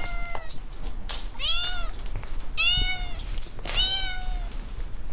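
Kitten meowing over and over: the end of one meow, then three high meows about a second apart, each rising and then falling in pitch.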